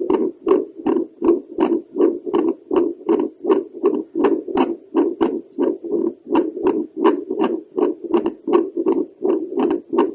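Home fetal Doppler picking up a woman's heartbeat over the pulmonary valve: fast, evenly spaced whooshing pulses.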